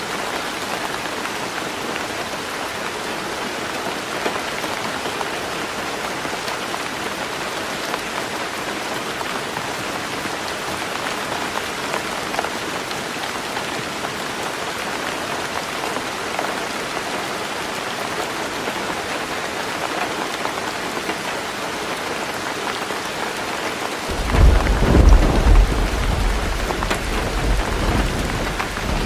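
Heavy rain pattering steadily on a roof. About four-fifths of the way through, a deep rumble of thunder swells in, the loudest sound, then slowly dies away under the rain.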